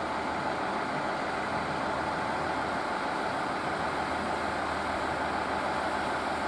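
Steady, even hum of trains standing at a station platform, their onboard equipment running with no movement.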